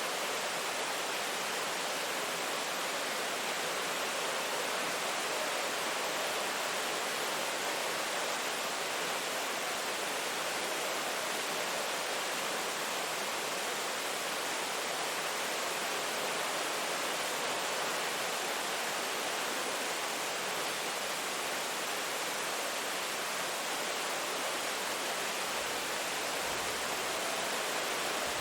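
Steady rain falling, a dense, even hiss without breaks or separate drops standing out.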